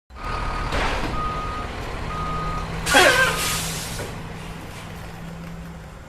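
Vehicle reversing alarm beeping steadily about once a second over a low engine hum. A loud hiss comes about three seconds in.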